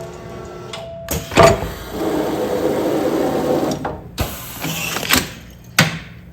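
Automatic food-container sealing machine working through its sealing cycle: several sharp clunks and clacks, with a stretch of mechanical whirring between about two and four seconds in.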